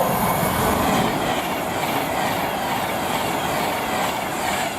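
Class 390 Pendolino electric multiple unit passing: a steady, loud rush of wheel and rail noise.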